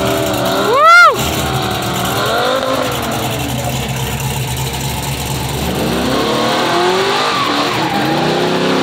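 Car engines rumbling and revving with tyre noise on a street after burnouts. About a second in comes one loud, short whoop that rises and falls in pitch.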